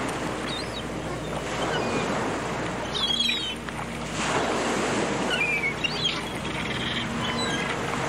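Surf washing onto a sandy beach with wind noise, and a few short, faint, high bird calls over it.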